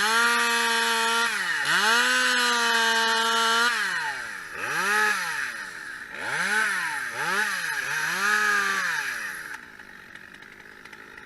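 Two-stroke chainsaw revved to full throttle and held there twice for a second or two each, then blipped up and down four or five times before dropping back to idle near the end.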